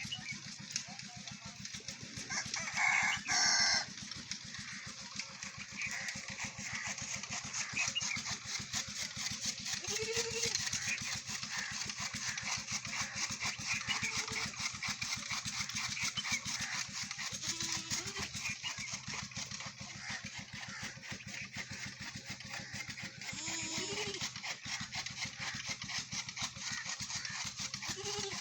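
A rooster crows once, loudly, about three seconds in, over a steady high hiss. A few faint short calls follow later.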